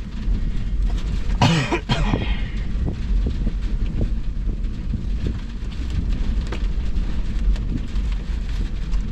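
Strong storm wind buffeting the microphone over heavy rain, a steady low rumble, with a short cough about a second and a half in.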